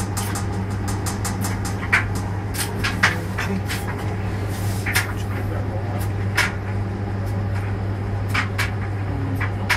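Washing machine with a steady low hum, and about a dozen sharp clicks at uneven intervals.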